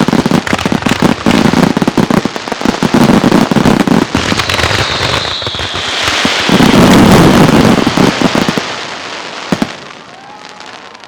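Aerial fireworks barrage: rapid, overlapping shell bursts and crackling. About four and a half seconds in a falling whistle sounds. The loudest booms come around seven seconds, then the barrage dies away, with a last single bang and fading crackle.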